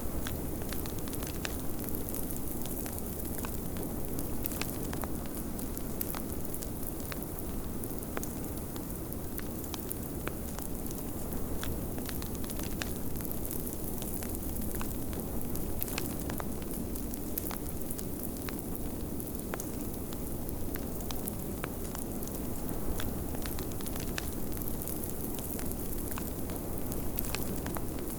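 Wood fire crackling in a fireplace, with frequent small irregular pops and snaps over a steady low rush of blizzard wind.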